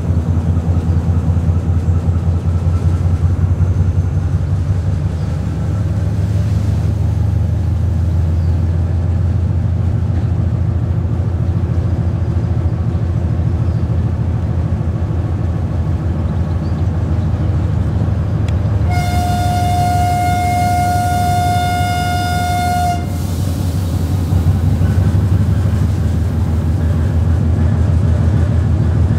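Passenger train running, heard from an open carriage window: a steady low rumble of the locomotive and the wheels on the rails. About two-thirds of the way in, the locomotive sounds its horn in one long, steady blast of about four seconds.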